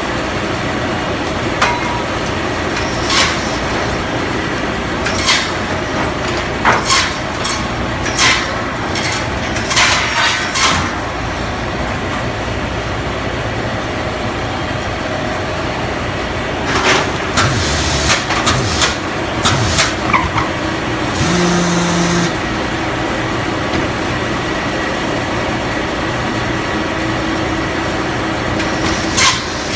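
Circular sawmill running, its engine giving a steady drone, with repeated sharp metallic clanks and knocks through it. A short whine comes about two-thirds of the way through.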